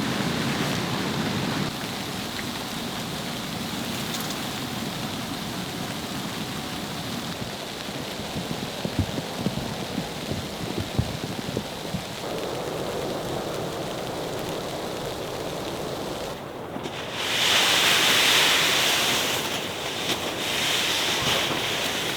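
Snowstorm wind blowing steadily, with a few light knocks around the middle and a louder hissing surge over the last few seconds.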